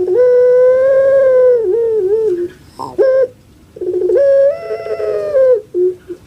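Puter pelung, a long-voiced domestic ringneck dove (Streptopelia risoria), singing: two long drawn-out calls that sound like a crying child, each tailing off into a short wavering warble, with a brief note between them.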